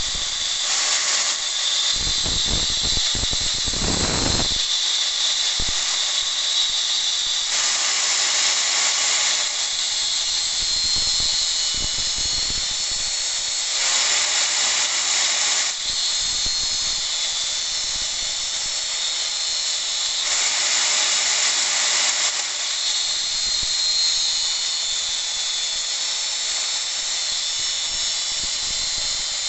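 Angle grinder running with a steady high whine, grinding a steel drill bit. The grinding grows louder and harsher in passes of about two seconds, roughly every six or seven seconds.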